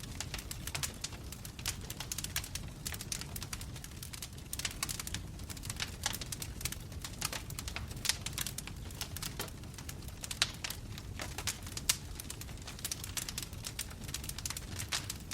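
Wood fire burning in a fireplace: logs crackling with many irregular sharp pops and snaps over a low steady rumble of the flames.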